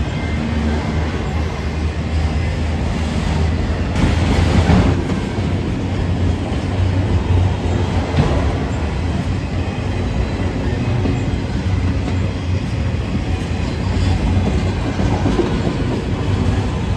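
Freight train rolling along the tracks: a steady rumble of railroad cars with occasional louder wheel knocks about four and eight seconds in.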